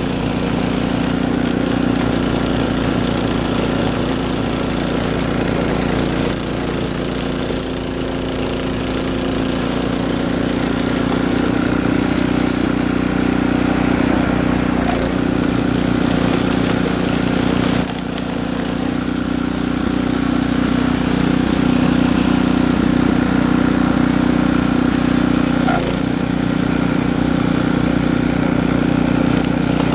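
Gas snowblower's small engine running steadily under load, with a few faint knocks along the way.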